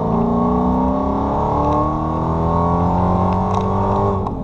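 2015 Dodge Charger SRT Hellcat's supercharged 6.2-litre Hemi V8, heard from inside the cabin, pulling under acceleration with its pitch climbing slowly. The note breaks off near the end.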